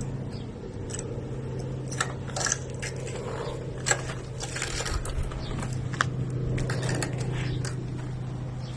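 A motor hums steadily at one unchanging pitch, without revving, while sharp clicks and light clattering come and go over it.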